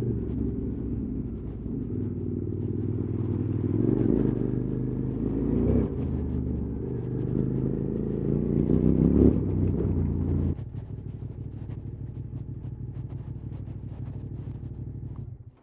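QJ Motor SVT650X parallel-twin engine through an Arrow slip-on exhaust, running at changing revs while ridden. It drops to a quieter, steady idle about ten seconds in.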